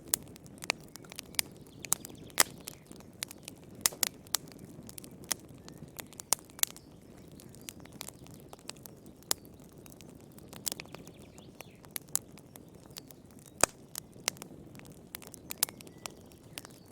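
Wood fire in a fireplace crackling: irregular sharp pops and snaps, a few much louder than the rest, over a low steady rumble of the flames.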